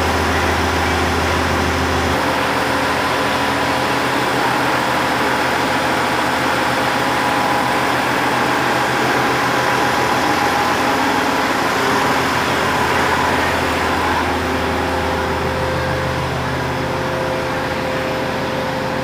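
Diesel engine of the Cut Meutia train running steadily, its note shifting about two seconds in and again a little past the middle.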